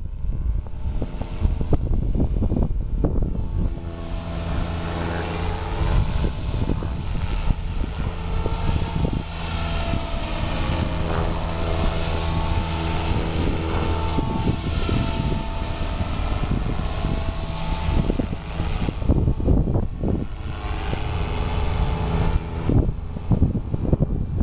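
Electric 450-size RC helicopter flying 3D: the rotor blades and brushless motor whine steadily, the pitch bending up and down as the rotor is loaded in manoeuvres, with wind buffeting the microphone.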